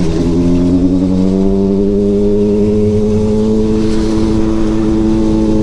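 400 cc inline-four motorcycle engine running at a steady speed while riding, its pitch easing slightly in the first half second and then holding even.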